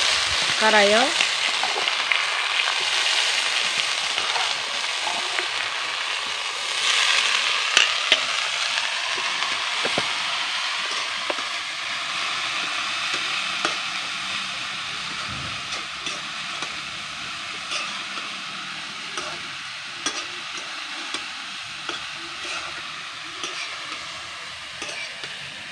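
Chopped elephant ear yam (maan kochu) sizzling as it fries in hot oil in a metal wok, stirred with a metal ladle that scrapes and clicks against the pan. The sizzle is loudest at first and slowly dies down.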